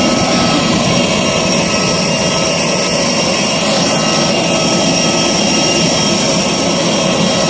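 Jet aircraft engines running steadily: a loud, even rumble with a constant high whine.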